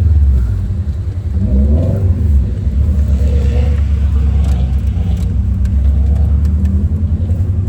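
Subaru WRX's turbocharged flat-four engine running with a deep, steady exhaust drone, revving up briefly a little under two seconds in, then holding steady.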